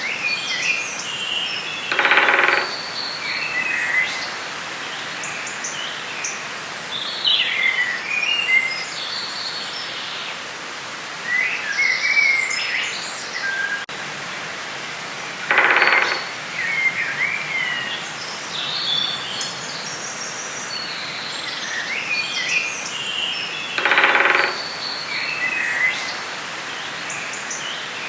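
Forest ambience: several birds chirping and singing over a steady hiss. Three louder, lower sounds, each about half a second long, come about 2, 16 and 24 seconds in.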